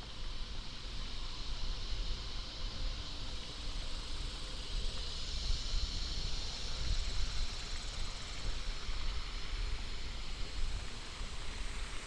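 Outdoor ambience: a low wind rumble with a steady high hiss that swells about five seconds in.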